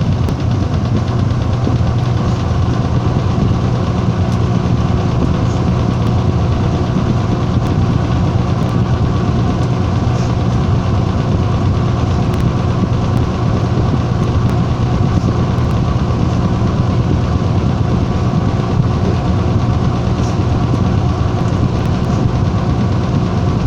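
Washing machine running with a loud, steady motor hum and vibration that holds level throughout, with a few faint ticks.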